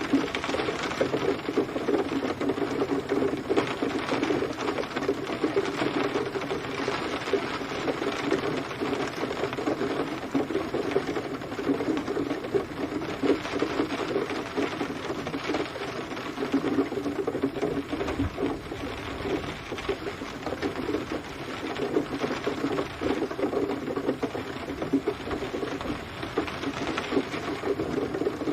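Steady rain with dense drops pattering on a surface, an even, continuous patter.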